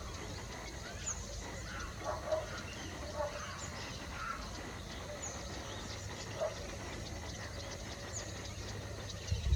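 Faint bird calls: short high chirps every second or two and a few lower calls, over steady low background noise, with a soft low bump near the end.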